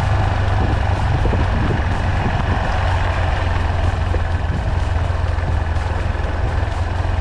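Yamaha Serow 250's single-cylinder engine running steadily under way, a constant low drone mixed with wind and road noise.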